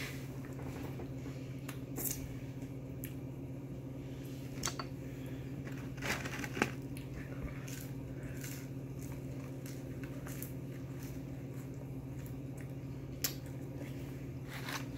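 A person eating fried food close to the microphone: scattered wet chewing and small mouth clicks, the sharpest about two, six and thirteen seconds in, over a steady low hum.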